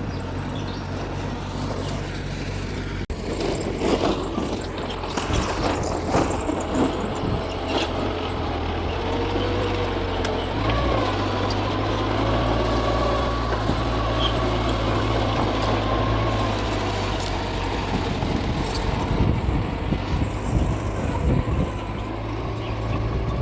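Mitsubishi bulldozer's diesel engine running steadily, with a cluster of metal clanks and knocks a few seconds in. The engine note steps up about halfway through.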